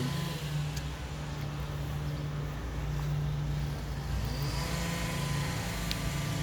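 Street traffic: a motor vehicle engine running with a steady low hum over the noise of the road.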